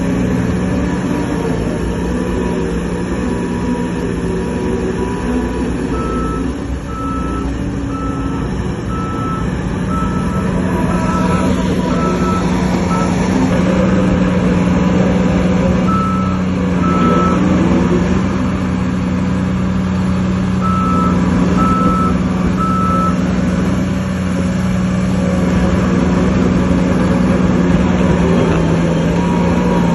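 Heavy diesel earthmoving machinery running steadily. A reversing alarm beeps about once a second in three runs: a long one a few seconds in, then two short ones in the middle.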